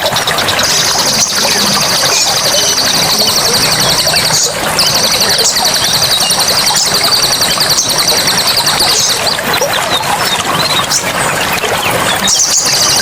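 Forest ambience: a steady rush of running water under long, high, buzzing trills that come in phrases of a few seconds each, with short breaks between them.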